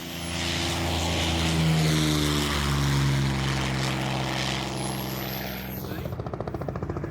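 Curtiss P-40 Kittyhawk's V12 engine at full takeoff power as the fighter passes, its pitch dropping as it goes by. About six seconds in it gives way abruptly to the fast, even blade beat of a Robinson R44 helicopter's rotor.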